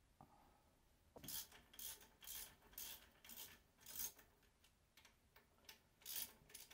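Faint rhythmic scraping strokes, about two a second, starting about a second in, from hand work on the Ford 300 inline-six block as its connecting rods and pistons are taken out.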